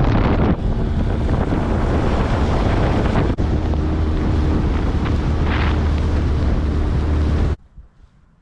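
Boat motor running steadily, with heavy wind buffeting the microphone; it cuts off abruptly near the end.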